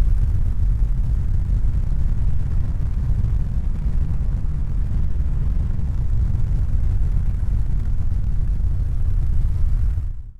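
Steady low rumble that fades out shortly before the end.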